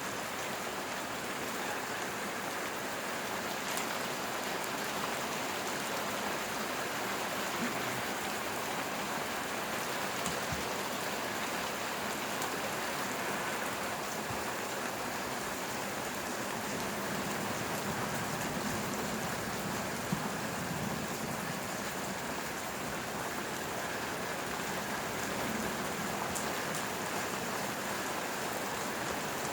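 Rain falling steadily in a thunderstorm, an even hiss of drops on surfaces, with a couple of brief faint ticks.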